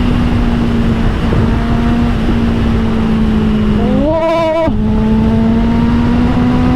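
Honda CBR650R's inline-four engine through an Austin Racing GP1R exhaust, running at a steady cruise. Its note drifts slowly lower, with a brief rise in pitch about four seconds in before settling again.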